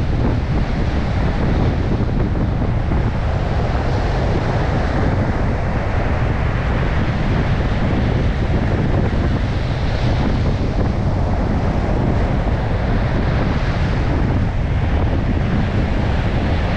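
Storm surf breaking on a beach with strong wind buffeting the microphone: a dense, steady wash of noise with a heavy low rumble.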